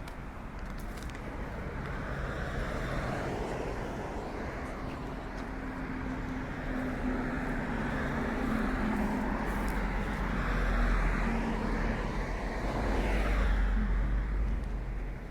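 Road traffic driving past, with a low engine hum that swells in and fades out over the middle of the stretch, loudest near the end.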